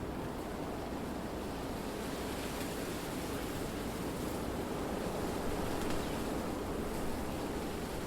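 Wind blowing through trees, a steady rushing noise that swells slightly about six seconds in.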